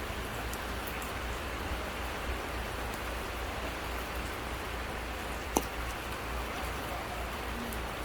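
Steady rain falling, with a few sharp crackles from burning firewood and one loud pop about five and a half seconds in.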